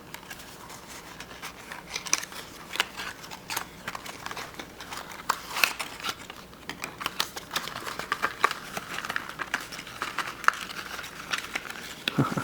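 Yo-yo retail packaging being opened by hand: irregular crinkling and rustling of plastic and cardboard, with many small clicks and taps.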